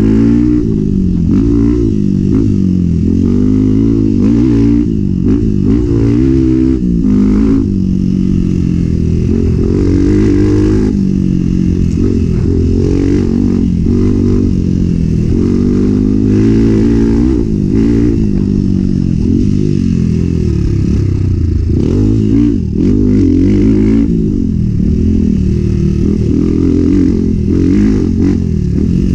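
Enduro motorcycle engine revving up and down continuously as the rider works the throttle through the off-road course, heard muffled with little above the low engine tones.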